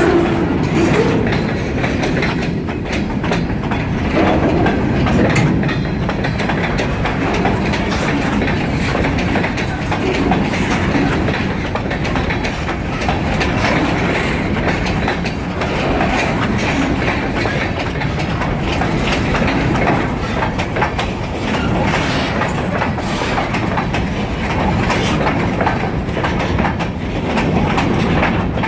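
Freight train rolling past: a steady rumble of wheels on the rails, with a continuous run of clicks as the cars' wheels cross rail joints.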